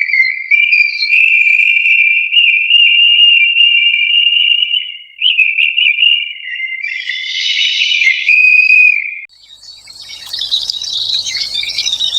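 A high, steady whistling tone that wavers slightly in pitch for about nine seconds. It breaks off and gives way to a busier burst of higher chirping near the end.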